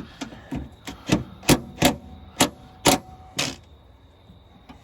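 Hand tools working on a bolt: a string of about ten sharp clicks and knocks over three and a half seconds, loudest near the middle, then a quieter stretch.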